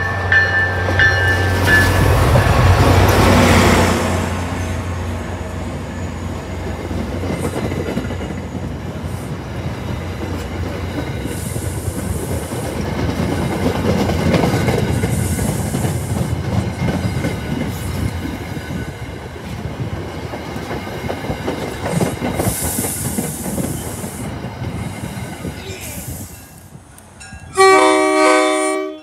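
MBTA diesel-hauled commuter train passing at speed: its horn sounds for about the first two seconds, the locomotive's engine goes by within the first four seconds, then the coaches' wheels rumble and clack over the rails for about twenty seconds. Near the end comes one short, loud multi-tone horn blast.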